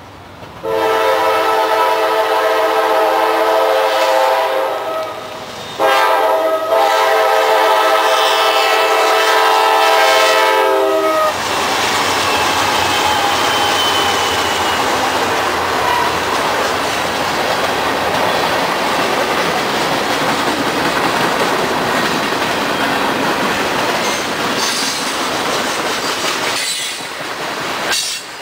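Diesel freight locomotive's multi-tone air horn sounding two long blasts of about five seconds each with a short break between. The locomotive and freight cars then run past, with steel wheels clattering over the rails and a brief faint wheel squeal a few seconds after the horn.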